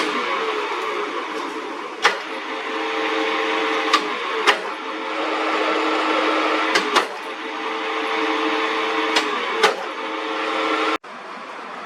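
Metal lathe running steadily, with sharp clicks every couple of seconds and a slight dip in pitch now and then. The sound cuts off abruptly near the end, and a quieter steady hum follows.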